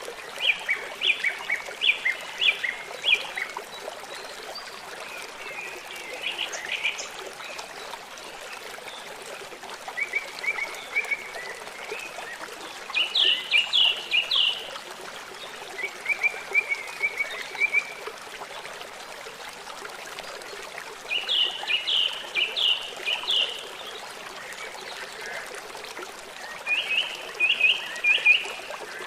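A river or stream runs steadily while a songbird sings short phrases of quick, high, repeated notes, one phrase every four to five seconds.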